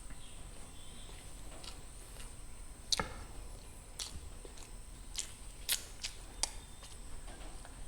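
A person eating close to the microphone: a handful of short, sharp chewing clicks and mouth smacks, the loudest about three seconds in.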